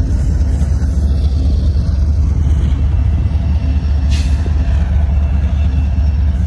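BNSF diesel locomotives hauling a loaded coal train, a loud steady low rumble. A brief hiss about four seconds in.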